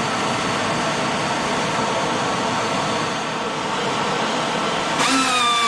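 Pneumatic angle grinder running flat out, a steady rushing air hiss with a faint whine, run continuously to heat it up in a torture test. About five seconds in the sound changes abruptly to a stronger, clearer whine that dips slightly in pitch.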